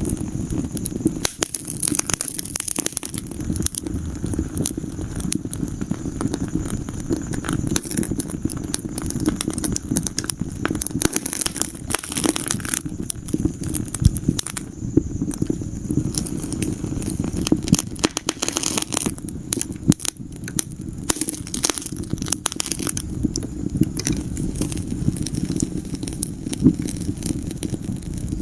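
Wood fire in a fireplace crackling, with dense, irregular pops and snaps over a steady low rumble of the flames.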